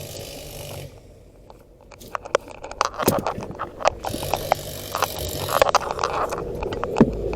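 Irregular clanks, clicks and scrapes of metal tools and parts being handled during a box-truck tire change, starting about two seconds in. A low rumble builds near the end.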